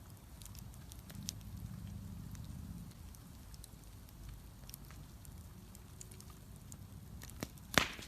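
Wood bonfire crackling, with scattered sharp pops over a low steady rustle of burning. One much louder pop comes near the end.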